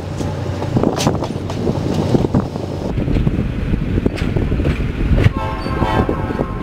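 Maroon passenger railcars rolling past close by on the track, a dense low rumble with frequent knocks. About five and a half seconds in, a pitched tone of several stacked notes sounds for about a second.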